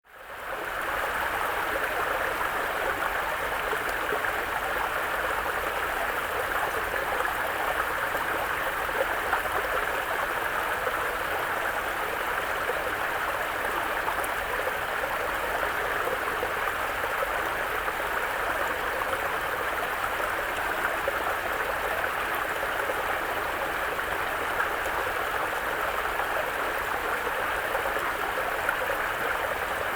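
Mountain brook flowing: a steady rush and gurgle of running water that fades in over the first half second.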